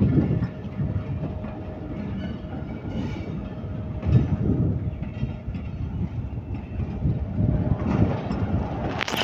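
Passenger train coaches rolling past close by: a steady low rumble of wheels on rails, with repeated clacks as the wheels cross rail joints.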